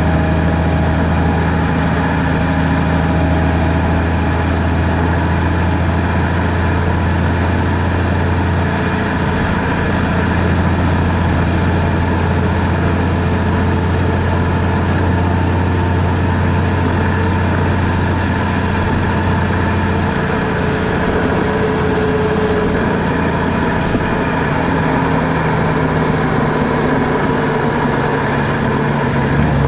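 Car engine and road noise while driving: a steady drone whose pitch shifts about twenty seconds in.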